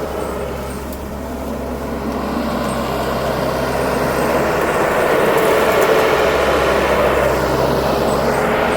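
A vehicle engine runs steadily and grows louder over the first several seconds.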